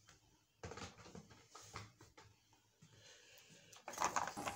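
Faint handling sounds of hard plastic toy trains: a few scattered soft taps and clicks, then a short cluster of light knocks near the end as a hand grabs a plastic toy engine on the table.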